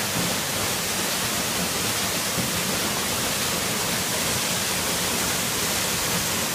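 Small waterfall, water falling and splashing steadily as an even, unbroken rush.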